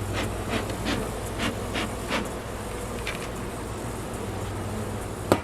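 Honey bees buzzing thickly around an open hive, a steady hum of a colony stirred up as its frames are shaken clear. A run of short knocks sounds in the first couple of seconds and again once near the end.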